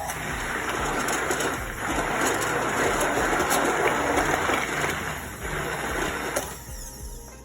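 All-Clad immersion blender running in a pot of thick mango pineapple sauce, a steady motor whir mixed with churning liquid, which cuts off shortly before the end.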